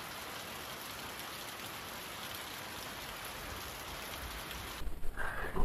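Steady rain, with water streaming off a roof edge. It cuts off abruptly near the end, giving way to a few short, louder sounds.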